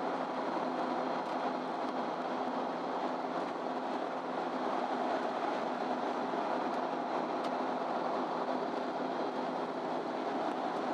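Inside a MAN Lion's City Ü bus under way: a steady engine drone with road and tyre noise at an even speed.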